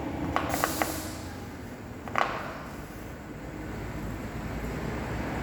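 Steady low mechanical hum, with a few light clicks and a short hiss near the start and one sharper click about two seconds in, from a tyre tread depth gauge being handled and set against the tyre.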